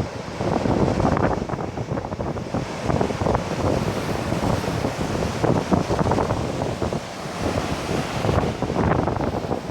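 Typhoon-driven surf crashing on a beach, with strong gusting wind buffeting the microphone in uneven surges.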